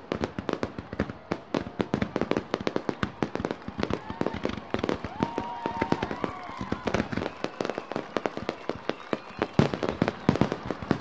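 Fireworks display: a rapid, dense run of bangs and pops, several a second, going on without a break.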